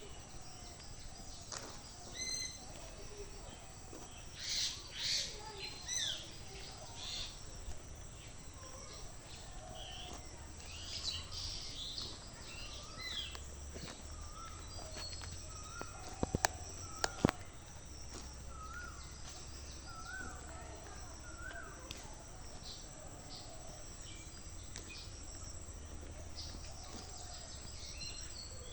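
Rural ambience of various birds calling and chirping in short phrases over a steady high insect buzz, with a low rumble underneath. Two sharp clicks stand out about halfway through.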